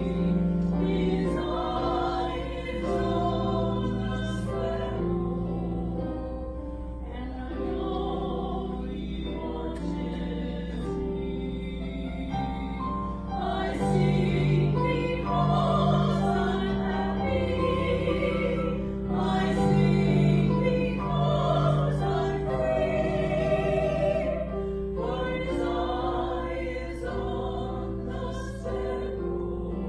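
Choir singing church music in slow, held phrases over sustained low accompaniment.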